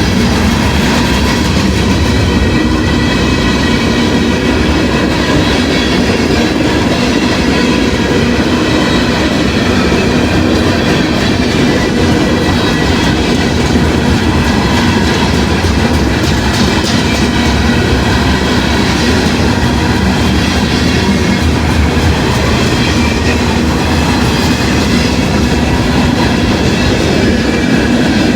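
Freight train cars rolling past close by, a steady, loud clatter of steel wheels on the rails.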